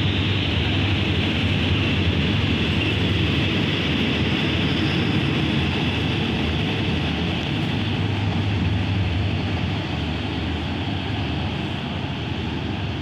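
Passenger coaches of a train rolling along the platform track: a steady rumble and rattle of steel wheels on rails that eases off slightly in the last few seconds as the train draws away.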